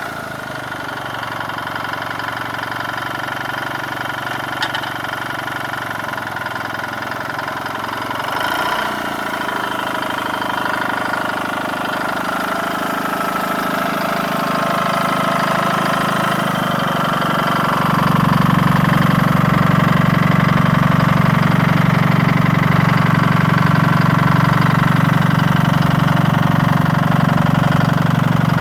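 1959 John Deere 435-D tractor's two-cylinder, two-stroke GM diesel engine running steadily. It grows louder about ten seconds in and again, more sharply, about eighteen seconds in, then holds at that level.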